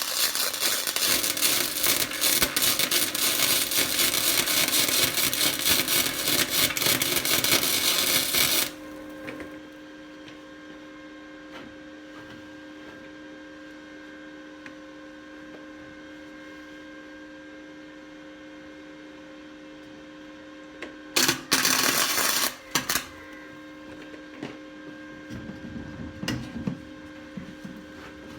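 Harbor Freight Titanium Flux 125 flux-core wire welder arc crackling and sizzling in a continuous bead, stopping after about eight and a half seconds, leaving the welder's steady hum. Later a second short burst of welding, about a second and a half long, followed by a few soft knocks.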